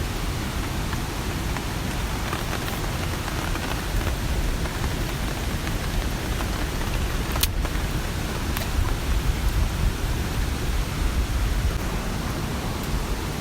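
Steady rain falling, with scattered sharper drops ticking close by; one louder drop lands about halfway through.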